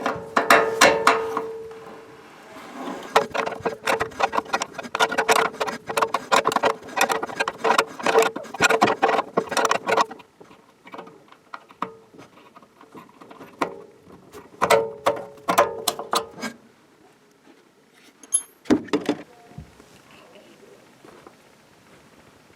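Rapid clicking and clattering, like small metal objects being handled, over a steady hum. The clatter is dense for about ten seconds, comes again briefly a few seconds later, then dies away to scattered clicks.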